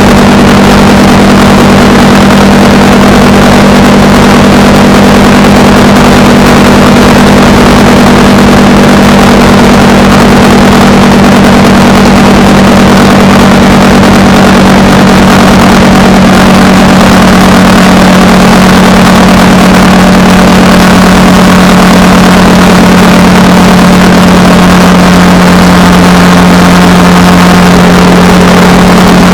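Honda Rebel 300 motorcycle engine running at a steady cruising speed, with an even rush of wind noise over it.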